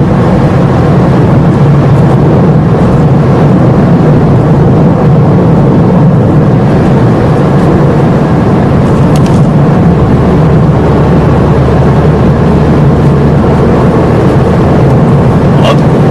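A car driving: steady, loud engine and road noise heard from inside the cabin. A deeper steady hum joins about ten seconds in.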